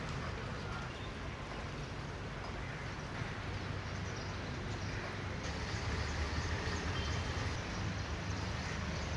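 Royal Enfield Himalayan 450's single-cylinder engine running on the move, under steady wind and wet-road noise. The sound grows a little louder about halfway through.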